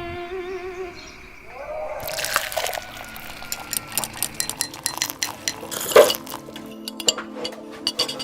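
A sung melody fades out in the first second. Then small glasses and teaspoons clink and rattle in quick, irregular strikes as tea is poured and stirred, with a few louder knocks, one about six seconds in.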